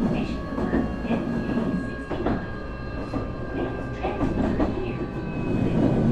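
Onboard running sound of a Nankai 8300 series IGBT motor car at steady speed. Several unchanging tones from the totally enclosed induction motors and the Hitachi IGBT VVVF inverter ride over a rumble of wheels on rail, with irregular knocks from rail joints.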